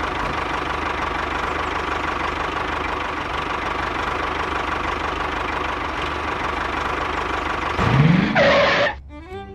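Tractor-style engine running steadily with a knocking drone. About eight seconds in, a louder pitched sound rises and falls for about a second, then cuts off.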